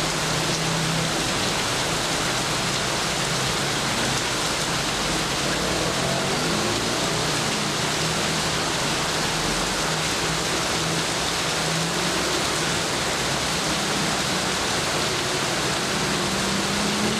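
Heavy rain falling steadily, a dense even hiss of drops on surfaces, with a low hum underneath that grows louder near the end.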